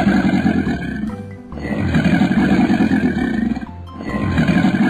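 Cartoon crocodile sound effect: a rasping animal growl repeated in long stretches of a second or two each, over background music.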